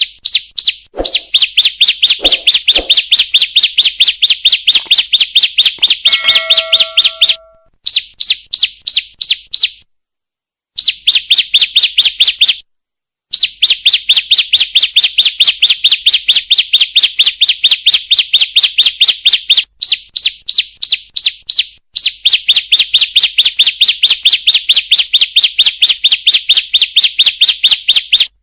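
Bar-winged prinia (ciblek) female call used as a lure for males: a fast, even run of sharp high chirps, about three to four a second, broken by two short silences around the middle.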